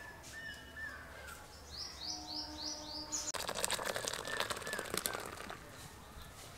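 Birds chirping, with a run of five quick rising chirps about two seconds in. A rapid clatter lasting about two seconds follows in the middle and is the loudest part.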